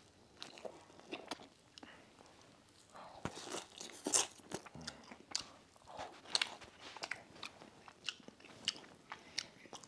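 A person biting and chewing an egg McMuffin-style sandwich (English muffin, egg, turkey bacon) close to the microphone: irregular mouth clicks and smacks.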